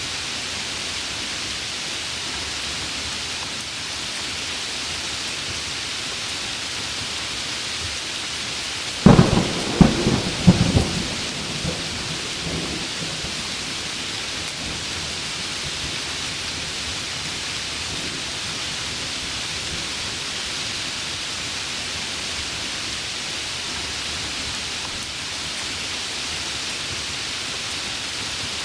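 Steady heavy rain hiss. About nine seconds in, a close thunderclap breaks in with three or four sharp cracks and rumbles away over the next few seconds.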